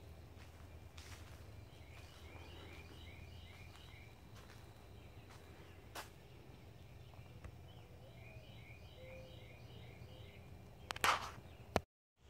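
A songbird sings two phrases of about six quick repeated notes, a few seconds apart, over a faint steady low hum. Near the end there is a brief loud scuffing noise, then the sound cuts out.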